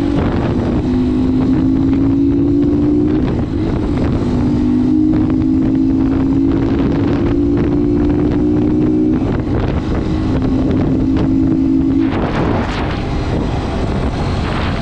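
Crossfire HJ 250 motorcycle engine running under way, its note climbing slowly and dropping back about 3 and 9 seconds in and fading near the end, with heavy wind buffeting on the microphone.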